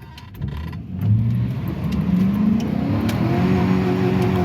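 Pickup truck's engine revved up hard about a second in, rising in pitch and then held at high revs, trying for a burnout on a wet road.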